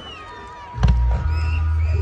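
A firework shell bursts with a loud boom a little under a second in, followed by a steady low rumble, over music and a crowd.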